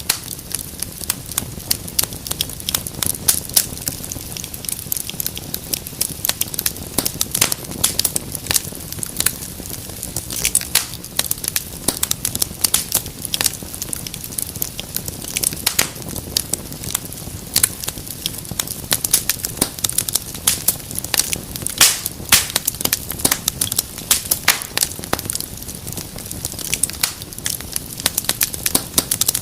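Wood fire crackling: dense, irregular sharp pops and snaps over a steady low hiss of flames.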